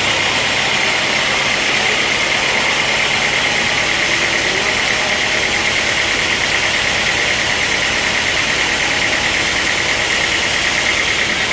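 Sawmill machinery running steadily: an engine-driven saw running without a break, its noise strongest in a high band.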